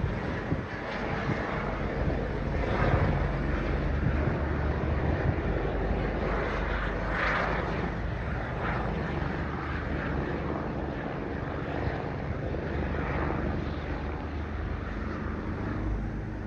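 Eurocopter EC145 twin-turbine helicopter circling overhead: a steady rotor and engine drone, loudest about three seconds in and slowly easing off.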